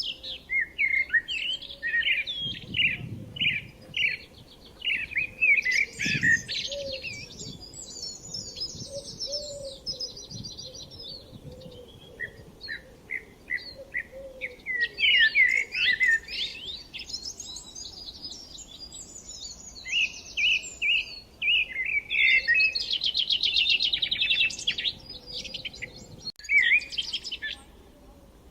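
Small songbirds chirping and trilling, a busy run of short high chirps and fast buzzy trills.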